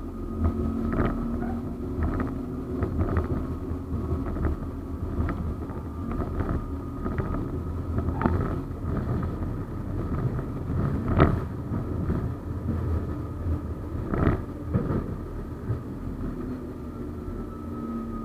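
71-931M Vityaz-M low-floor tram running along the track: a steady rumble with a high whine that falls near the end, and irregular knocks and clicks throughout.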